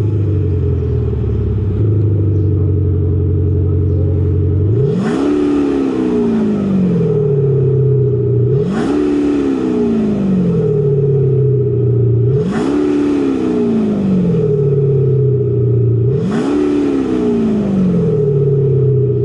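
Jeep Wrangler with a Kufatec active sound system, which plays an artificial deep exhaust note through a speaker instead of changing the exhaust. The engine note holds steady at idle, then is revved four times, once about every four seconds. Each rev climbs quickly and sinks back slowly.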